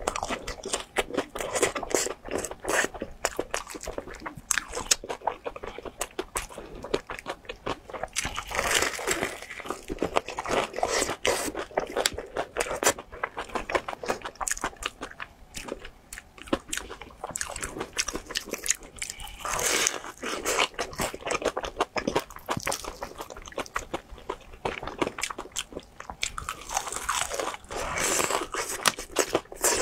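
Close-miked crunching and chewing of a breaded fried chicken drumstick coated in cheese sauce: a dense, continuous run of crackly bites and chews through a clip-on microphone.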